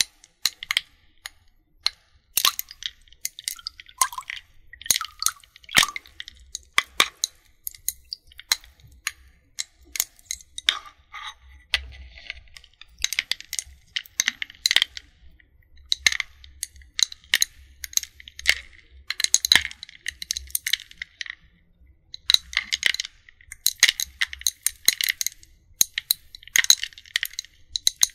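Close-miked ice melting, giving an irregular stream of sharp crackles, pops and small clinks with bits of fizzing hiss.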